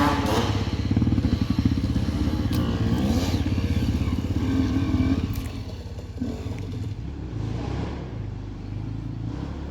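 Enduro motorcycle engine running close by, its revs rising and falling. It drops back to a quieter sound about halfway through.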